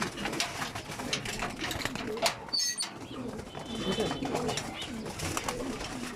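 Racing pigeons cooing in a loft, a low warbling from several birds at once, with scattered sharp clicks and rustles among them.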